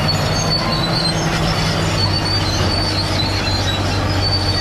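Caterpillar D7G crawler bulldozer working: its diesel engine runs steadily under load while the steel track undercarriage gives off thin, high-pitched squeals that come and go.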